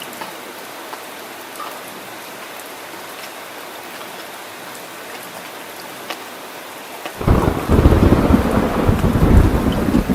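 Steady rain falling, an even hiss with scattered drip clicks. About seven seconds in, a loud rumble of thunder starts suddenly and rolls on.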